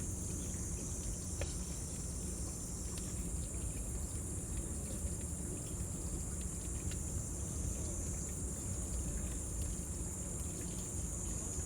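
Cicadas droning steadily at a high pitch, over a crackling wood fire that gives scattered sharp pops, one standing out about a second and a half in, and a low rumble.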